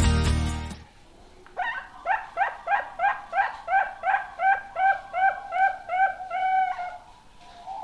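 A young zebra dove (perkutut) calls: a run of about fifteen short, evenly spaced pitched notes, roughly three a second, that stops about seven seconds in. Guitar music fades out in the first second.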